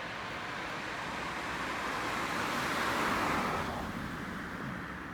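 A car passing by on the road, its tyre and engine noise growing to loudest about three seconds in and then fading away.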